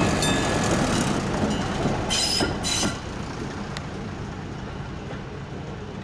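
An electric-bell level-crossing signal sounds a last stroke and falls silent while a train rumbles over the crossing. About two seconds in there are two short high squeals, and then the train noise fades.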